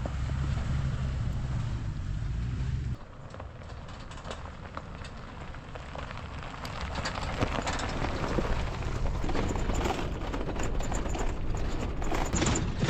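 Low wind rumble on the microphone that cuts off after about three seconds. Then a vehicle rolls over rough lava rock, with a growing crackle and crunch of tyres on loose stone.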